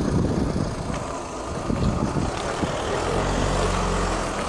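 Police car's engine running just after being started, a steady low hum that grows stronger about three seconds in.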